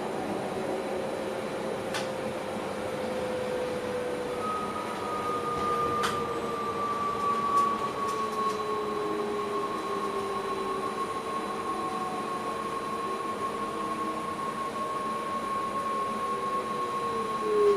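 Electric train heard from the driver's cab, its traction motors whining in two tones that slowly fall in pitch as it slows, the lower one dropping steeply near the end, over steady rail rumble, with a couple of sharp ticks.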